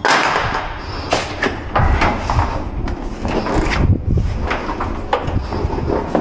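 Door and lock hardware being worked on: a sudden scrape or rattle at the start, then a run of irregular clicks and knocks with some dull thuds.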